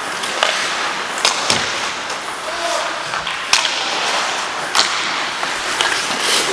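Ice hockey play: a steady scrape and hiss of skate blades on the ice, with several sharp clacks of sticks and puck striking one another and the boards, echoing in the rink.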